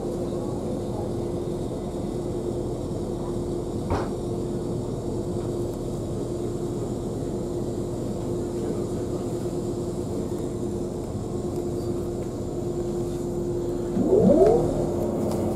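Steady hum and rumble of a moving passenger train, heard from inside the carriage, with a single click about four seconds in. Near the end comes a brief rising whine, the loudest moment.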